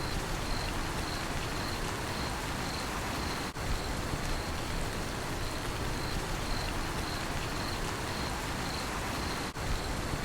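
Steady rain falling, with a cricket chirping in a high, even pulse about twice a second. The sound drops out for an instant twice, about three and a half seconds in and near the end.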